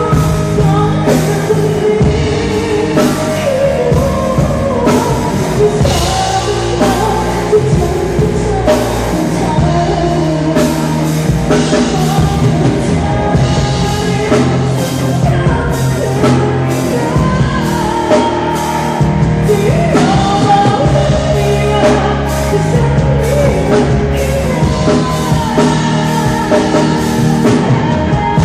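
A band playing a rock-style song: a sung vocal line over a drum kit beat, guitar and bass.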